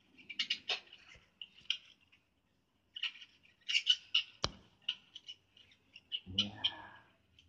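Birds chirping and squawking in short repeated calls, with a single sharp click about four and a half seconds in and a brief low voice-like sound near the end.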